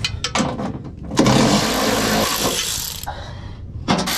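A hiss of pressurised spray, running for about two seconds from a second in, then starting again sharply near the end.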